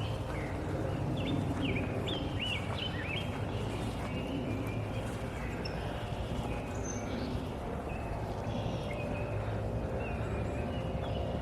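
Wild birds chirping, with short calls that sweep upward in pitch, scattered all through and thickest in the first few seconds, over the steady footsteps of someone walking along a trail.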